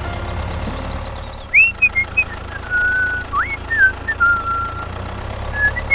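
Whistling: a string of short upward slides and briefly held notes, starting about a second and a half in, over a steady low hum.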